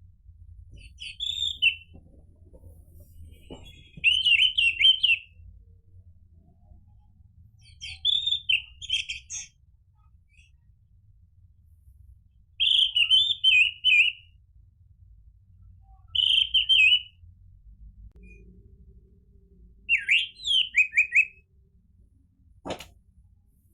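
Orange-headed thrush singing: six short, warbled whistled phrases, each about a second long, with pauses of two to three seconds between them. A single sharp click near the end.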